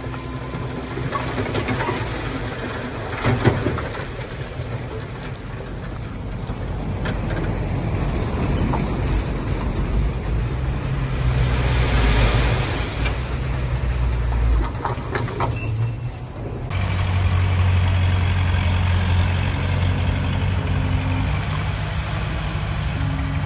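Heavy diesel earthmoving machinery running: a deep engine drone under scattered knocks of soil and rock and a rush of hiss about halfway through. About two-thirds of the way in, the sound settles into a louder, steadier deep engine drone.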